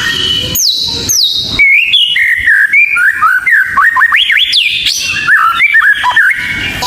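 White-rumped shama (murai batu) singing a continuous, varied run of clear whistled phrases, full of quick rising and falling slides, with several sharp downward sweeps from high notes.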